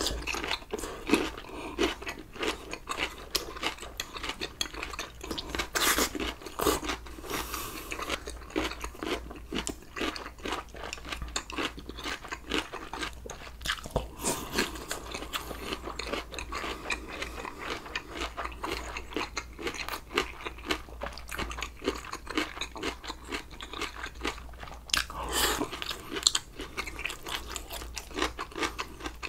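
A man chewing a mouthful of rice and sausage stew, miked close for a mukbang: a steady run of quick mouth clicks and smacks, with a few louder bites.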